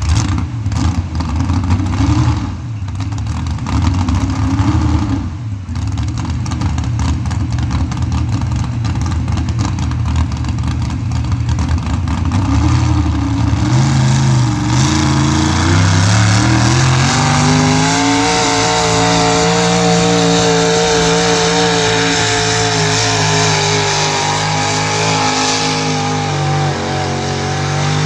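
Engine of a pulling vehicle running low and rough, then revving up from about fourteen seconds in and holding high, steady revs under load, as in a sled pull.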